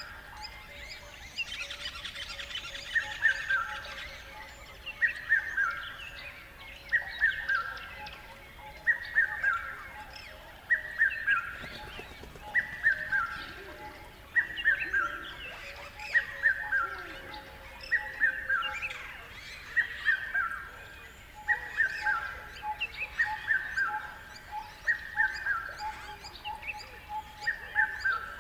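A forest bird repeats a short phrase of falling notes about every two seconds, over fainter chirps from other birds.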